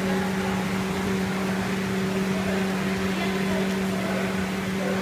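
A steady mechanical hum of one constant pitch over a background of noise.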